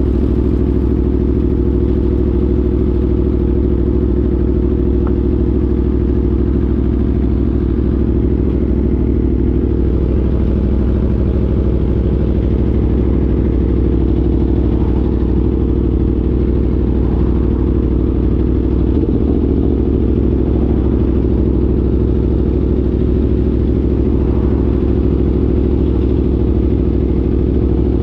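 Aprilia Tuono V4 motorcycle's V4 engine idling steadily, holding an even, unchanging pitch throughout.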